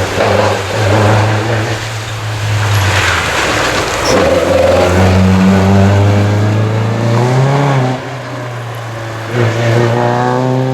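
Historic rally car's engine revving hard on a stage, its pitch climbing and falling with gear changes. It lifts off sharply about eight seconds in, then comes back on the throttle.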